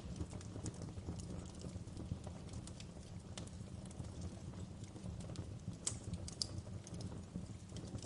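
Fireplace crackling: irregular sharp pops and snaps over a steady low rumble, with two louder pops about six seconds in.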